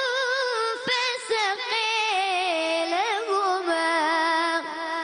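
A boy's voice reciting the Quran in melodic tajweed style, drawing out long held notes with wavering ornaments that slowly fall in pitch, with a short break about a second in.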